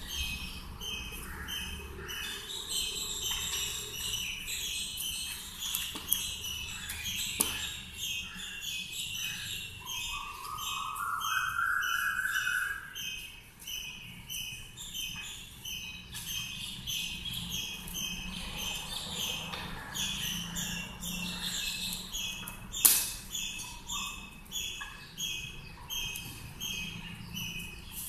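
Small birds chirping over and over, about two high chirps a second. A longer rising call comes about ten seconds in, and a sharp knock near the end.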